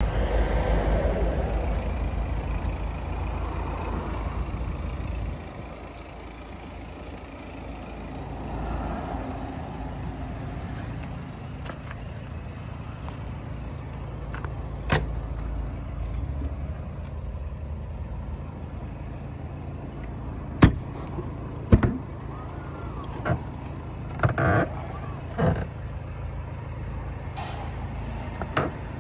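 BMW 320d's four-cylinder diesel engine idling steadily, louder for the first few seconds and then lower. In the second half come several sharp clicks and knocks as the tailgate is unlatched and lifted.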